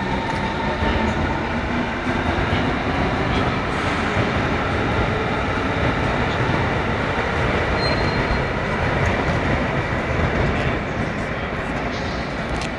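S-Bahn train running on the track, a steady rumble of wheels and rail noise.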